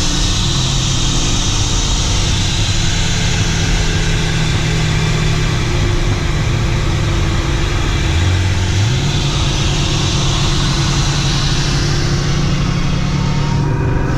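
A car's engine running under way, steady over loud road and wind noise. About eight seconds in, the engine pitch rises as it picks up revs.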